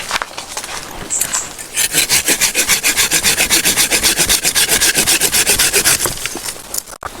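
A hand tool rasping on wood. After a few scattered scrapes, it settles about two seconds in into quick, even strokes, about ten a second, which fade out near the end.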